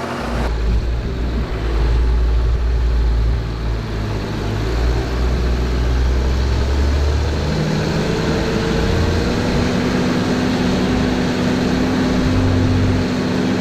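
Ford TW-series tractor's diesel engine running under load while ploughing, heard from inside the cab. About halfway through, the deep rumble eases and a steadier drone with a faint whine takes over.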